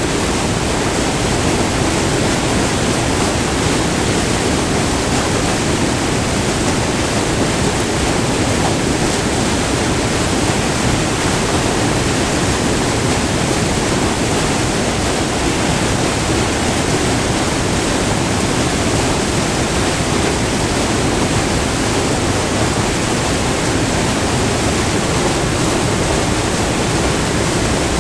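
Multi-tiered river waterfall rushing: a steady, loud white-water roar with no breaks or changes.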